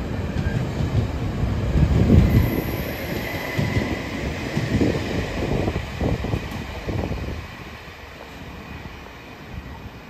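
Train passing through a station at speed: wheels rumbling and clacking over rail joints, with a faint whine early on, then fading away about three quarters of the way through.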